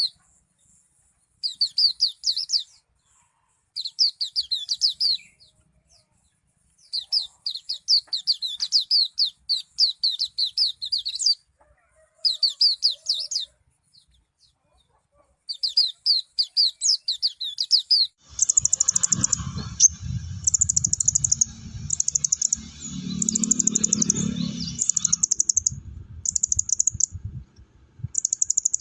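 Javan bush lark singing in phrases of quick, repeated rising notes, separated by short pauses. About two-thirds of the way in, a faster, higher chattering song takes over in short blocks, with a low rumble underneath.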